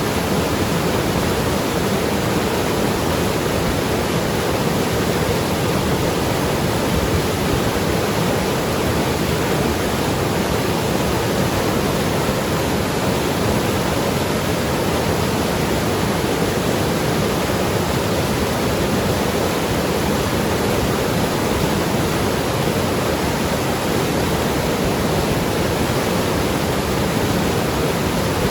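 Mountain river rushing and gurgling over rocks, a steady, unbroken water noise.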